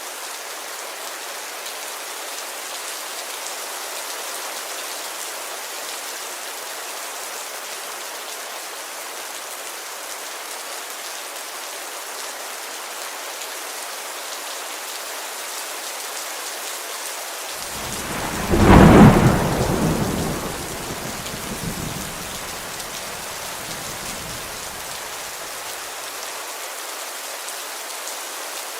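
Steady rain falling on a window, with a thunderclap about two-thirds of the way through that rumbles away over several seconds.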